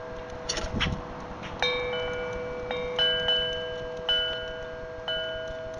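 Wind chimes ringing: about five strikes, each leaving several clear tones that hang on and fade slowly. A short scratchy noise comes under a second in.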